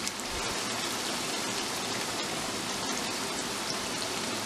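Hot oil and butter masala sizzling steadily in a wok as marinated chicken in its yogurt marinade is added, a dense, even crackle.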